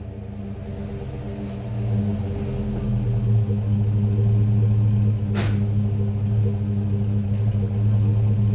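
5.3-litre LS V8 exhaust through a stock LS Y-pipe and a Flowmaster Super 10 muffler, running at a steady engine speed with an even, low note after settling from a rev. A single sharp click about five seconds in.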